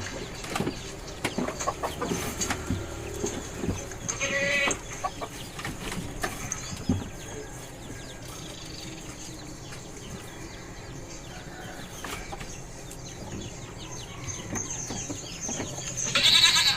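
Goats bleating: a short quavering bleat about four seconds in and another near the end, with scattered knocks and shuffling between.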